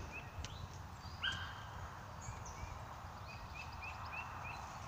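A small songbird repeating short, high chirps at about three a second, in two runs, one near the start and another after about three seconds. About a second in there is a single louder, short call, with a low rumble underneath.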